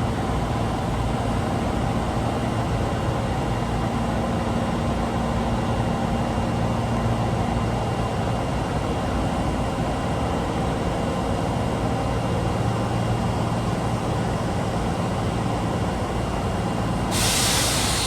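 Osaka Metro 22 series subway car humming steadily, with several held tones over a low rumble. Near the end a short, sharp hiss of released compressed air.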